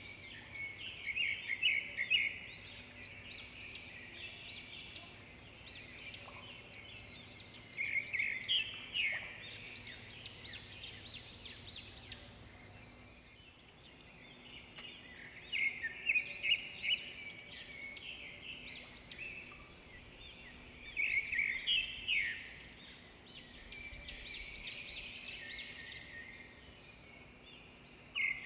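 Birds calling in repeated bursts of quick, high chirping notes, a cluster every six or seven seconds.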